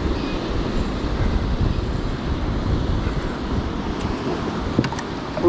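Wind buffeting the microphone, a steady low rumble over the moving water, with a few faint clicks near the end and a short sound falling in pitch right at the end.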